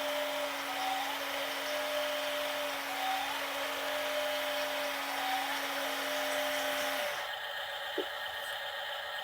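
Small electric motor of a toy RC dump truck whining steadily, then cutting off about seven seconds in, followed by a single faint tick.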